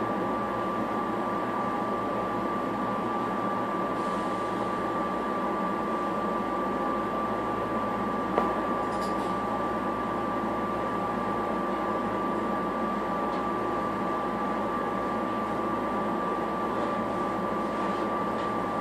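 Steady interior noise of a Silverliner V electric multiple-unit railcar, a hum and rumble with a constant high-pitched tone, and a single sharp click about eight seconds in.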